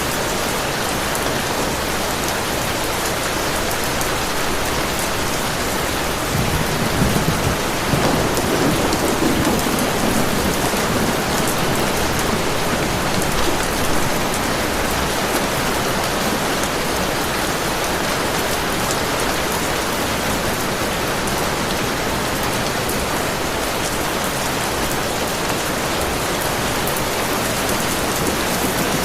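Heavy rain falling steadily, with a low rumble of thunder swelling about six seconds in and fading away by about ten seconds.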